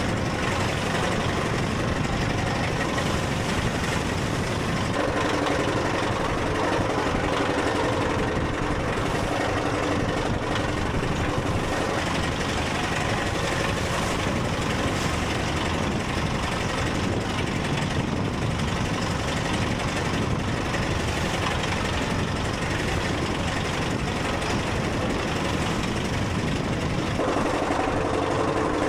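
A boat engine running steadily at low revs, with its pitch shifting slightly a few times.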